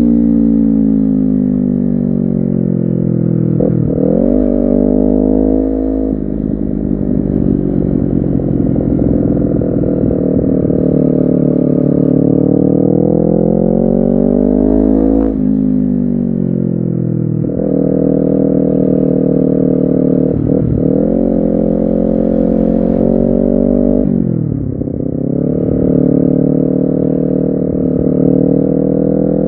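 Honda CBR250RR's parallel-twin engine under way, revs climbing and then dropping sharply at each gear change, about four times, with a long dip and slow climb in the middle.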